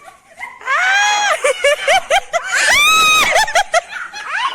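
People shrieking and screaming with excitement, mixed with laughter. The voices are high-pitched, with a run of short rising yelps and one long held shriek around the middle.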